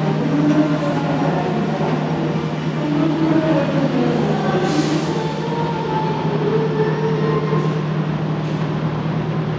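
Steady low hum of a diesel-hauled passenger train standing at a station platform, with indistinct background murmur.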